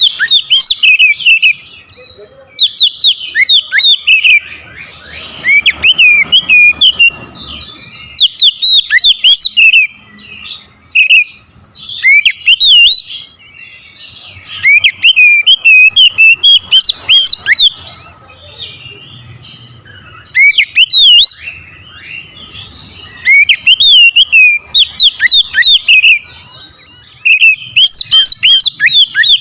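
Oriental magpie-robin (kacer) singing loudly in repeated bursts of fast, varied whistles and chattering notes, each burst a second or two long with short pauses between. It is the full, aggressive song used to provoke rival males into singing back.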